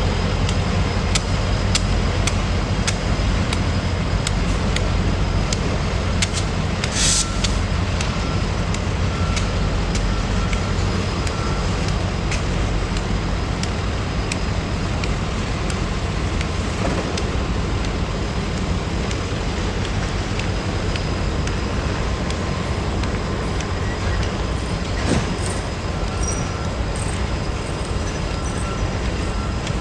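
Freight train rolling past with a steady rumble and regular clicks from its wheels, about two a second for the first twelve seconds, then sparser.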